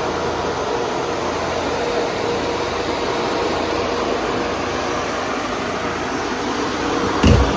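Steady mechanical whirr of a running machine, with a constant hum through it, and one sharp thump near the end.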